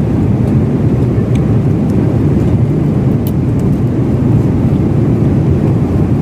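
Steady low rumble of an airliner cabin in flight: jet engine and airflow noise, with a few faint clicks.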